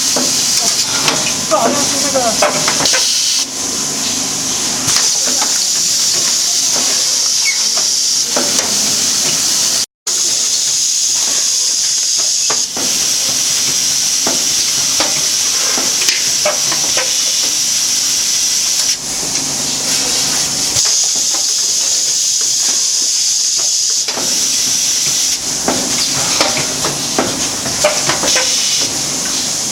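Automatic vacuum packing machine for tea running: a steady hiss of air that eases off briefly every several seconds as it cycles, over many small clicks and knocks from the mechanism.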